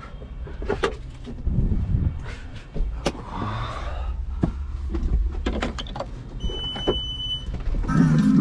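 Clicks and knocks of handling inside a loader's cab over a low rumble, with one steady electronic beep lasting about a second. Near the end a radio comes on playing Latin music.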